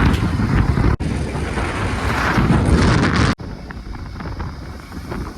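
Heavy-machinery diesel engine running, with wind buffeting the microphone. The sound cuts out for an instant about a second in and again about three and a half seconds in, and is quieter after the second cut.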